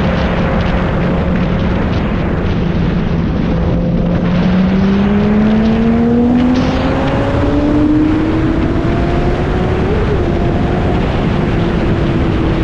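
Motorcycle engine running while riding, under loud wind rush on the microphone. The engine note holds steady, then rises smoothly for several seconds as the bike accelerates, and levels off near the end.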